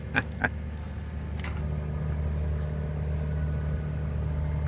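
Steady low rumble, with a few faint clicks in the first second and a half.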